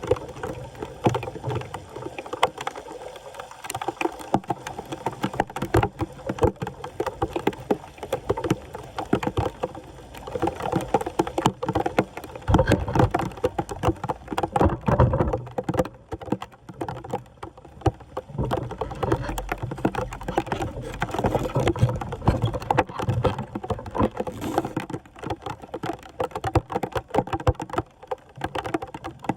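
Floodwater sloshing and splashing at a blocked storm drain, with many irregular knocks and scrapes as debris is worked loose, and heavier low splashes from about twelve seconds in.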